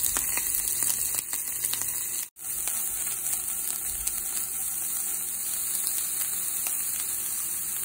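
Shrimp stir-frying in hot oil in a pan: a steady sizzle, with a few light clicks in the first two seconds. The sound cuts out for an instant about two seconds in.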